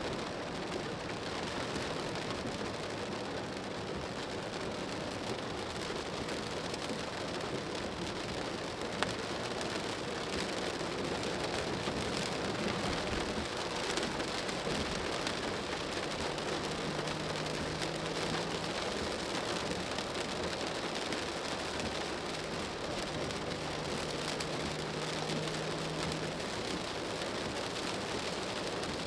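Rain falling on a moving car's roof and windscreen, with the hiss of tyres on the wet road, heard from inside the car. A faint low hum comes in twice in the second half.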